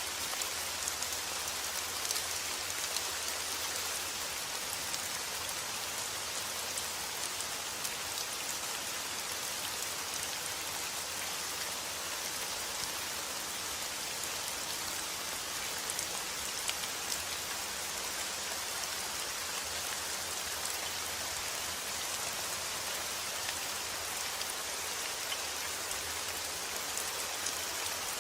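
Steady rain falling, an even hiss with fine scattered patter of individual drops hitting a surface.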